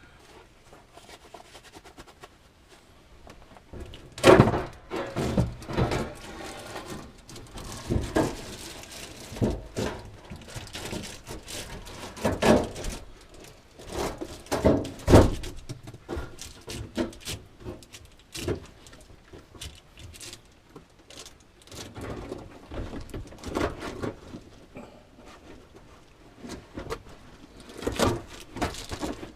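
Irregular knocks and thunks from sheet metal being handled and fitted into a fridge compartment, loudest about four seconds in and again about fifteen seconds in.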